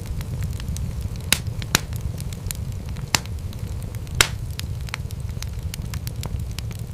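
Wood fire crackling in a fireplace: a steady low rumble under a constant scatter of small sharp crackles, with several louder pops, the loudest about four seconds in.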